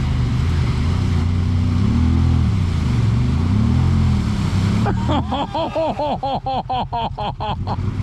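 Off-road vehicle engine running and being throttled, its pitch rising and falling. About five seconds in it changes to a rapid run of short rising-and-falling whines, about four a second, to the end.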